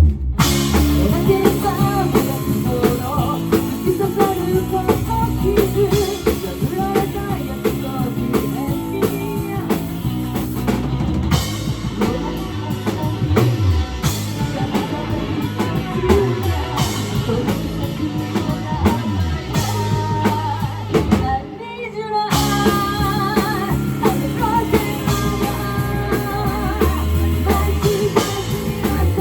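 Live rock band playing: drum kit, guitar and a singing voice. The band stops for a moment about three-quarters of the way through, then comes back in.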